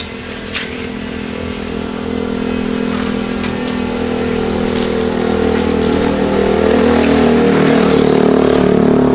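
Engine running and slowly revving up, its pitch and loudness climbing gradually over several seconds, then dropping off right at the end.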